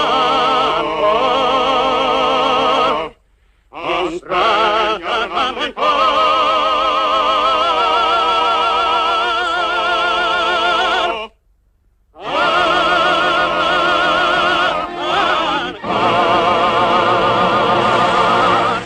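Operatic singing with wide vibrato, the voice of a cartoon whale singing opera. It breaks off briefly twice, about three seconds in and again near the middle.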